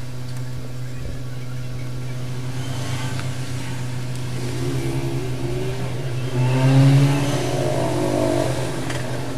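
A steady low mechanical hum, with a louder tone rising and falling over it that swells to its loudest about seven seconds in.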